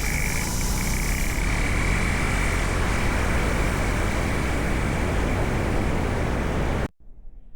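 BMW R18 Roctane's boxer-twin engine running with a low, even pulse under a loud rushing noise, which cuts off abruptly near the end.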